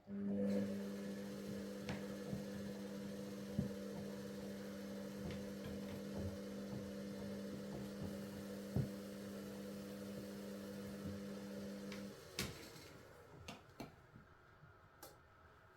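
Bauknecht WA Pure ST 14 FLD washing machine in its steam self-clean program: the drum motor runs with a steady hum as the drum turns, then stops about twelve seconds in. A few clicks and knocks follow in the pause.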